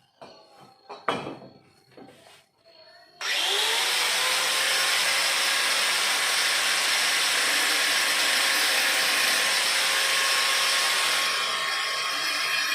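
A few handling knocks, then an angle grinder switches on about three seconds in, its tone rising as it spins up, and runs steadily, cutting into the steel casing of a refrigerator compressor to open it. The sound eases a little near the end.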